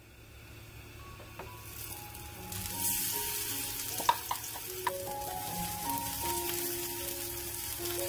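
Corn fritter batter sizzling in hot oil in a frying pan. The frying hiss builds about two seconds in as the batter goes into the pan and then holds steady, with a few sharp clicks around the middle.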